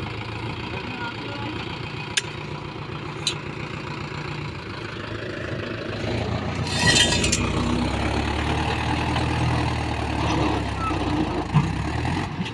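Mahindra 585 DI tractor's diesel engine running steadily, growing louder and deeper from about seven seconds in, where a short loud hiss also sounds. Two sharp clicks come about two and three seconds in.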